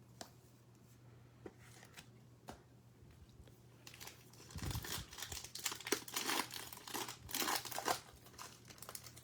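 A plastic trading-card pack wrapper being torn open and crinkled, a dense rustling from about four seconds in that lasts for about four seconds. A few light taps of cards being handled come before it.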